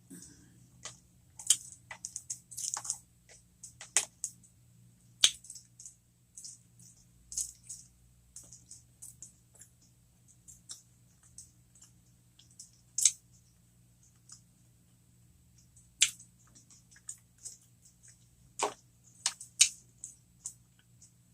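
Close-miked chewing of breadcrumb-coated cheeseburger jalapeño poppers: scattered crisp clicks and crackles, a few much louder than the rest.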